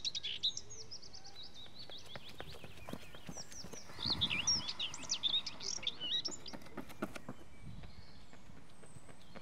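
Songbirds chirping in quick, high runs, one at the start and another from about four to six and a half seconds in, over a steady outdoor hiss, with scattered sharp ticks.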